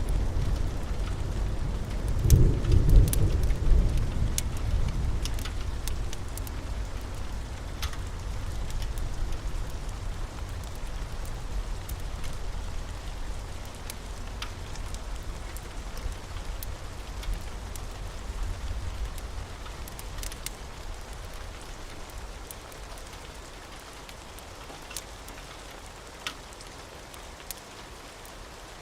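Rolling thunder that swells a couple of seconds in and then slowly fades, over steady rain. A few sharp crackles sound at scattered moments.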